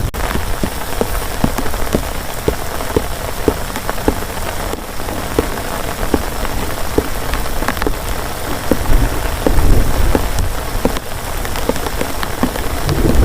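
Heavy rain falling steadily, with single large drops ticking sharply on a surface close by, about one or two a second.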